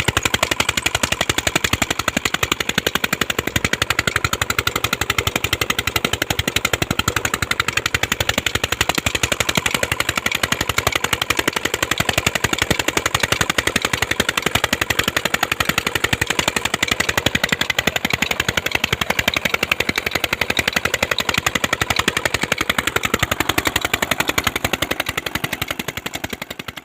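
Peter (Petter-type) single-cylinder diesel tube-well engine running at a steady speed, its exhaust beating in a rapid, even rhythm, fading away near the end.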